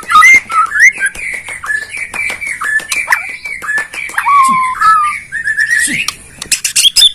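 White-rumped shama singing a long, varied run of whistled notes that slide up and down, mixed with many short sharp ticks, ending in a quick burst of higher notes.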